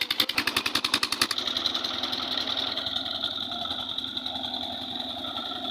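Tractor engine running, with a fast, even chugging that gives way about a second in to a smoother, slightly quieter running sound.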